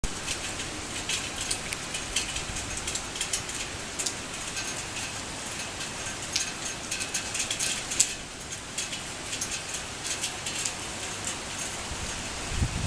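Torrential rain pouring steadily, with a dense patter of sharp drop ticks striking a hard surface close by. A low rumble comes up near the end.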